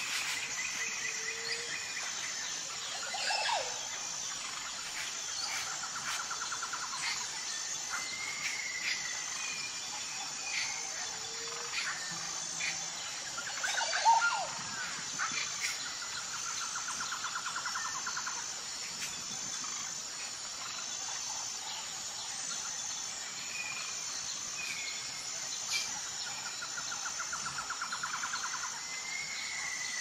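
Birds calling at intervals: short chirps, three spells of rapid trilling and one louder call midway, over a steady high insect drone.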